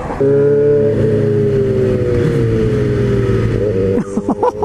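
MV Agusta Brutale motorcycle engine running at a steady cruise under the rider, with a slight slow drop in pitch; about four seconds in the sound turns choppy in quick pulses.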